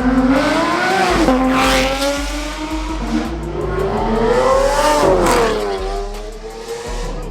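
Car engine revving: the pitch climbs to a peak about a second in, drops back, then climbs to a second, longer peak about five seconds in before falling away.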